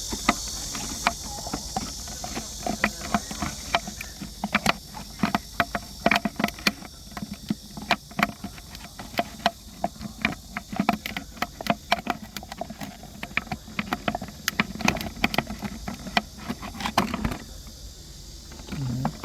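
Plastic PET bottle crackling and clicking irregularly as crushed fruit is squeezed by hand and pushed into it as hornet-trap bait. The crackling stops shortly before the end.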